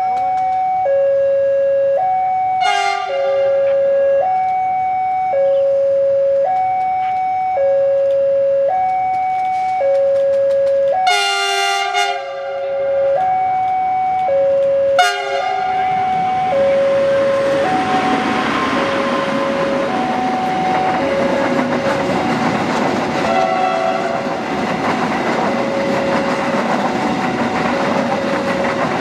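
Level-crossing warning alarm sounding throughout as a steady alternation of a low and a high tone, each about a second long. A diesel locomotive sounds its horn three times, the middle blast the longest, and from about halfway through its train of flat wagons rumbles past over the rails.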